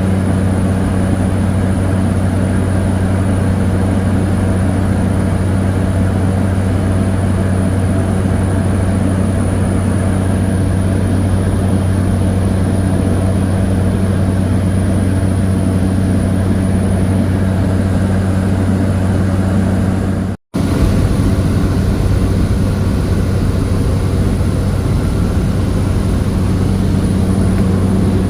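Cessna 208 Caravan's single Pratt & Whitney PT6A turboprop engine and propeller droning steadily, heard from inside the cabin, with a low hum and a thin high whine. The sound cuts out for an instant about twenty seconds in, then carries on unchanged.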